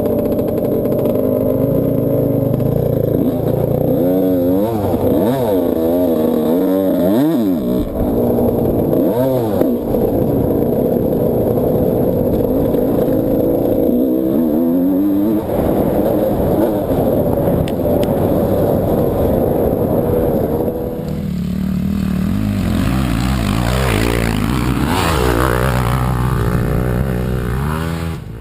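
Motocross dirt bike engine revving up and down repeatedly as the rider rides the track, its pitch rising and falling with throttle and gear changes. About three quarters of the way through, it settles into a lower, steadier note.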